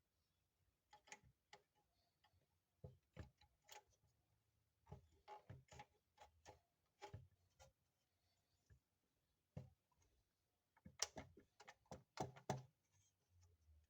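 Faint, irregular small clicks and taps from handling a 1:24 scale Mercedes-Benz Sprinter model van. They come in loose clusters, with a denser run near the end.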